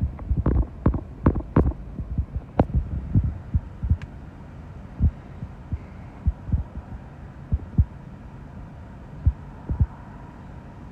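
Strong gusty wind buffeting the microphone: irregular low thumps, coming thick and fast for the first few seconds, then sparser, over a steady low hum.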